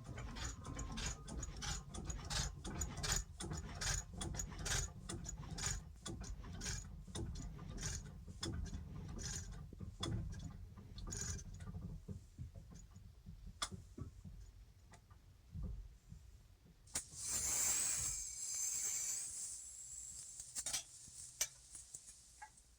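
Rapid, irregular mechanical clicking like a ratchet or gear train, dense for the first dozen seconds over a low rumble and then thinning out, with a short burst of hiss about seventeen seconds in.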